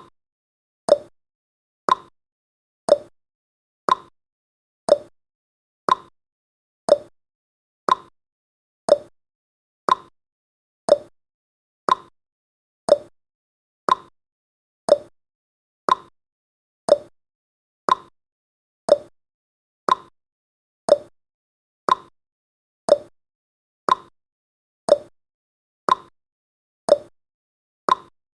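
Clock tick-tock sound effect marking each second of a countdown timer: one sharp tick every second, alternating between a higher and a lower note.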